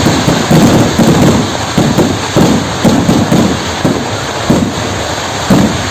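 Vedikkettu fireworks (Kerala festival firecrackers) going off in a fast, irregular string of heavy booms, about two a second, that run together into a continuous rumble.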